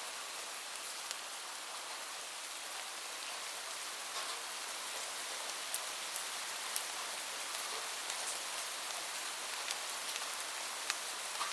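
Steady rain falling, an even hiss with scattered close drops ticking sharply now and then.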